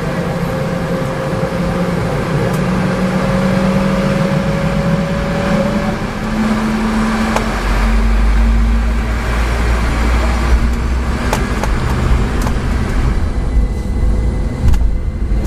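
Cabin noise of a Boeing 717-200 with its rear-mounted Rolls-Royce BR715 turbofans: a steady engine whine that slowly rises in pitch. A deep rumble grows stronger about halfway through, and a few sharp knocks come from the airframe and landing gear.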